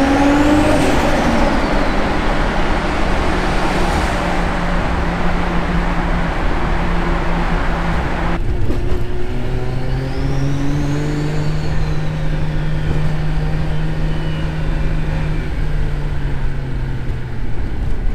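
Nissan RB25DET Neo turbocharged straight-six in a C33 Laurel, pulling hard with its turbo whistle rising as it spools. About halfway through it changes abruptly to a quieter, steadier pull, with the turbo whine rising and then falling again.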